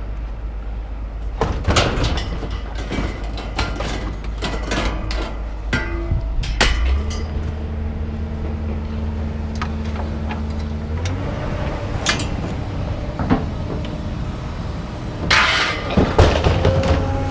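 An engine runs steadily, its speed stepping up about seven seconds in and again a few seconds later, while scrap metal clanks and bangs repeatedly as it is unloaded.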